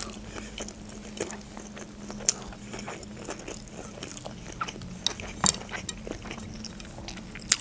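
Mouth sounds of someone chewing sushi rolls: soft, scattered wet clicks and smacks, with a few sharper clicks.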